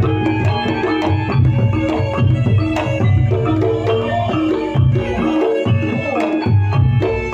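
Javanese campursari music with a kendang hand drum playing a busy pattern of deep strokes and sharper slaps over held melodic notes.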